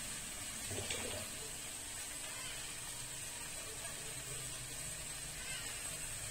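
Fish sautéing in oil in a stainless steel pot over a gas burner: a steady, soft sizzle.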